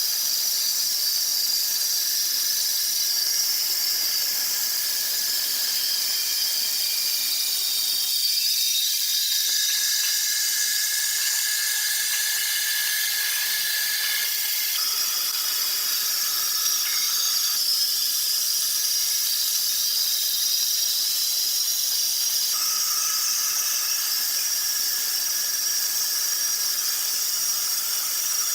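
Sawmill saw running through wood: a steady high-pitched whine over a hiss, its pitch shifting a few times.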